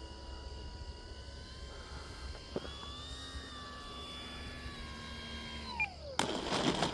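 Electric motor and propeller of an FMS Cessna 182 1500mm RC plane whining steadily on landing approach, rising a little in pitch about two and a half seconds in, then winding down sharply as the throttle is cut near the end. A burst of rough noise with clicks follows right after, as the plane touches down and rolls out.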